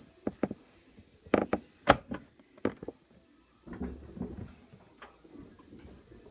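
LG washing machine starting up noisily: a string of sharp knocks and clicks, then a low rumble from about four seconds in that settles into a faint steady hum.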